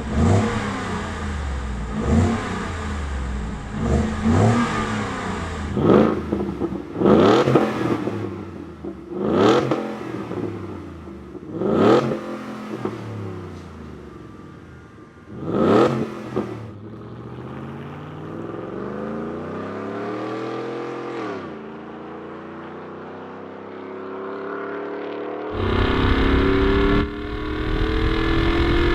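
Ford F-150 5.0L V8 through a Borla Stinger S-Type stainless cat-back exhaust, revved sharply from idle about seven times, then one slower, longer rev that rises and falls. Near the end the sound turns louder and denser, with the pitch slowly rising as the engine pulls.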